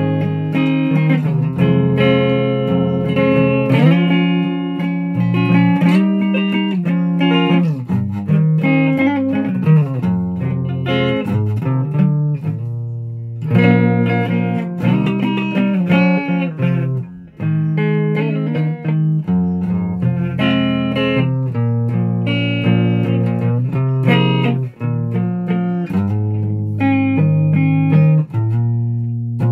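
Guitar being played: a continuous run of plucked notes and chords, with short breaks about 13 and 17 seconds in.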